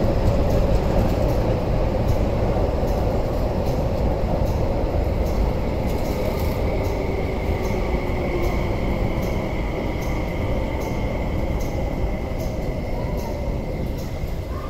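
Running noise of a West Rail Line SP1900 (IKK) train: a steady rumble with a motor whine that slowly falls in pitch. A thin high whistle joins about six seconds in, and the noise gradually fades.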